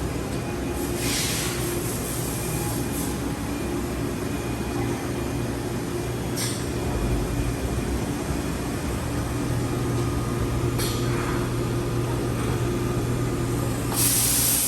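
Johnford DMC-1200HN gantry CNC machining center running with a steady hum, broken by a few short hisses of air about 1, 6 and 11 seconds in and a longer hiss near the end.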